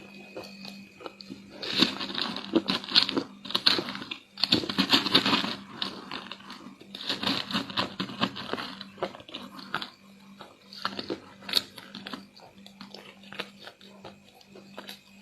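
Close-up crunching and chewing of crispy chocolate chunks in chocolate paste: three dense bouts of crackling bites in the first half, then slower, sparser chewing.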